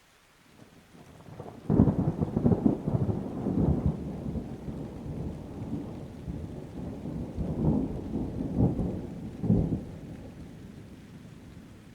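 Thunder: a sharp clap about two seconds in, then a rolling, crackling rumble with several further peaks that dies away near the end, over rain.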